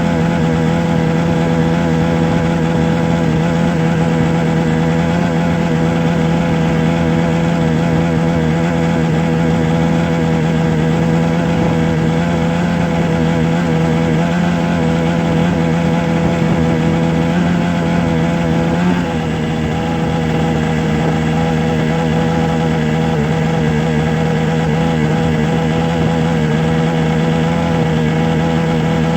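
A motor running steadily with a constant low hum, its tone shifting slightly about nineteen seconds in.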